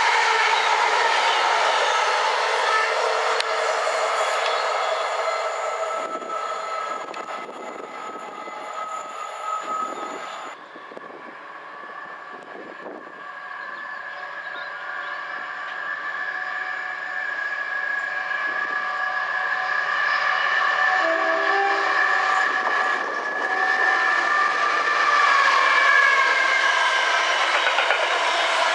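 Trains passing on a main-line railway. The first passing train's wheel-and-rail noise fades away over the first ten seconds, then another train approaches and grows louder, with a train horn sounding.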